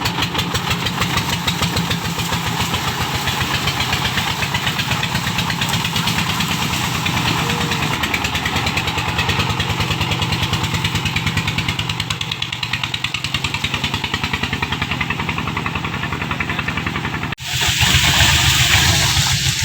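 Engine-driven corn sheller running steadily, its motor pulsing fast and even. Near the end the sound breaks off suddenly and comes back louder and hissier.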